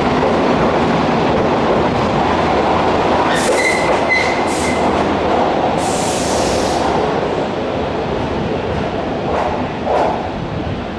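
A Keihan electric train running past at an underground station platform, a steady heavy rumble of wheels and motors. A brief high wheel squeal comes about three and a half seconds in, and a sharp hiss of air about six seconds in, after which the noise slowly eases.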